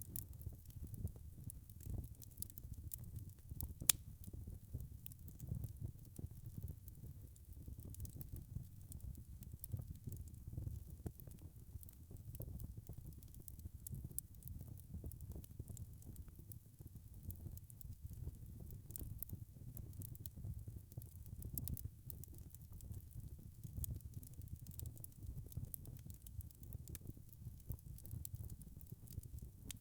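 Wood fire crackling in a fireplace: a steady low rumble of burning with frequent small pops and snaps, and one sharper crack about four seconds in.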